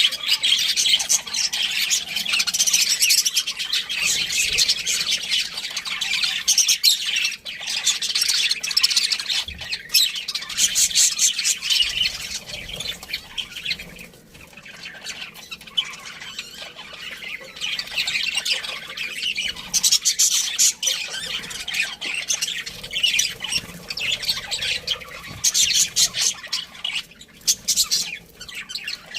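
A flock of budgerigars chattering continuously, with many overlapping high chirps and squawks. There is a quieter lull about halfway through, and louder bursts follow.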